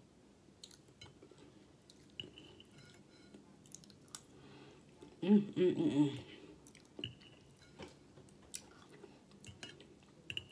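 Close-miked chewing of a breakfast of pancakes, scrambled eggs and sausage, with light clicks and short scrapes of a metal fork on the plate. About halfway through comes a brief, louder vocal sound from the eater.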